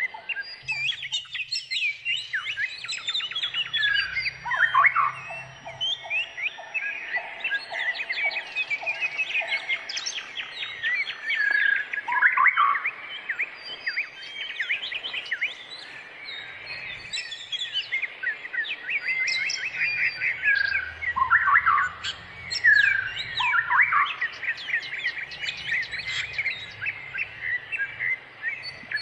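Shrikes calling: a dense, busy run of rapid chirps, trills and sweeping notes that goes on without a break, with a lower note repeated about twice a second for a few seconds near the start.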